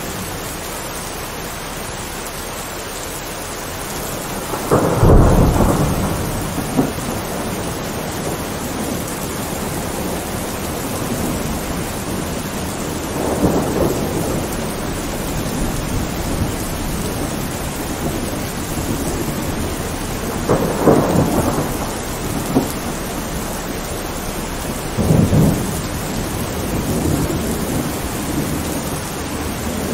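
Thunderstorm: steady rain with rolls of thunder, the loudest about five seconds in and three more spread through the rest.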